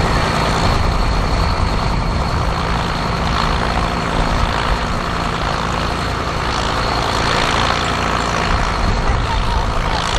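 Versatile 145 tractor's engine running steadily under load, pulling a cultivator on a cable at a low gear.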